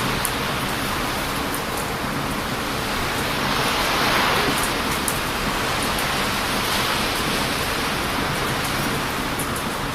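Heavy ocean waves breaking on a beach, a steady rush of surf that swells about four seconds in, with scattered small pops of a wood campfire crackling.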